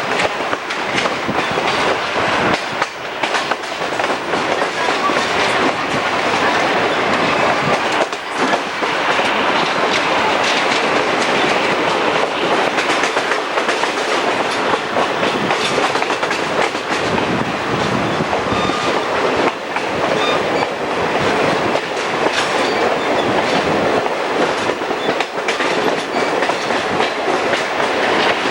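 Passenger train running along the track: a steady, loud rumble and rattle with the wheels clicking over the rail joints.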